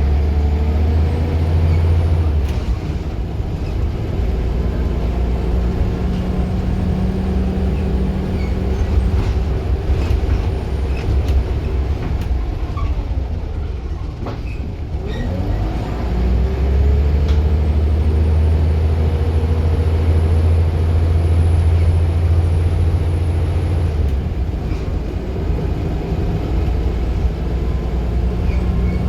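Scania Wright Solar single-decker bus under way, its diesel engine and gearbox pulling with a rising whine. Near the middle it eases off to a low, then pulls away again with the engine drone and whine building up.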